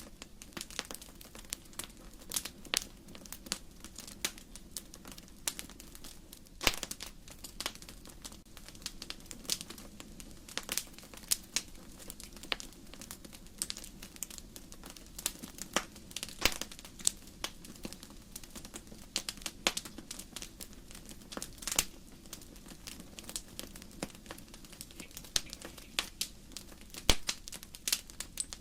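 Wood fire crackling in a fireplace: irregular sharp snaps and pops, a few louder ones, over a low steady hiss of the burning logs.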